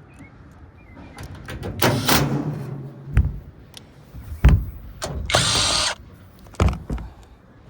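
Power drill running in short runs, with several sharp metal knocks in between.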